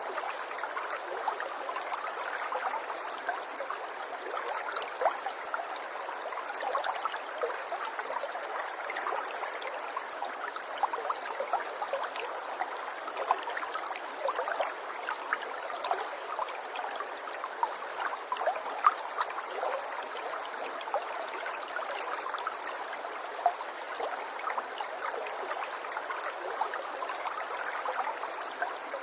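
Running water: a stream flowing steadily, with many small splashes and gurgles over the whole stretch.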